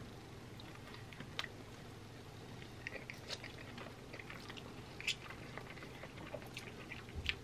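Two people chewing and biting into chicken wings close to the microphone: faint mouth sounds with a few small clicks scattered through.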